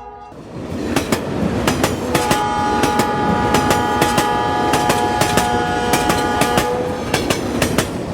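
Rumbling vehicle noise with rapid, irregular clattering clicks, and a steady horn tone held for about four and a half seconds in the middle.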